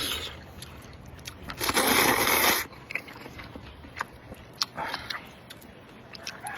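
Close-miked eating: biting and chewing with small sharp clicks, and one loud noisy burst lasting about a second, about a second and a half in.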